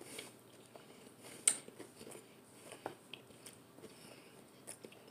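Close-miked chewing of a mouthful of chicken quesadilla: small wet mouth clicks and smacks, with one sharper click about a second and a half in.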